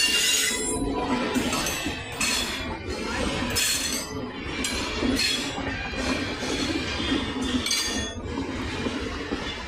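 Indian Railways express passenger coaches passing close at speed: a steady rumble of wheels on rail, broken by sharp metallic clinks and clatters about once a second as the wheels run over the rail joints.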